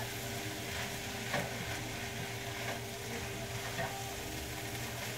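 Chopped cabbage and corned beef frying in a skillet, sizzling steadily while a spatula stirs and turns them, with a few light scrapes and clicks of the spatula against the pan.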